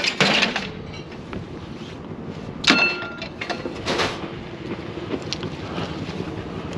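Scrap items clanking as they are handled: a few sharp knocks, the loudest about two and a half seconds in with a brief metallic ring, over a steady background noise.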